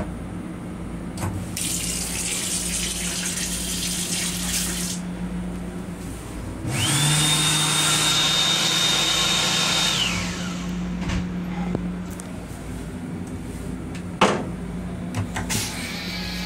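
Water running from the restroom sink tap with a hiss for a few seconds, then a louder rushing hiss with a steady high whistle for about three seconds, over the railcar's steady low hum, with a sharp knock near the end.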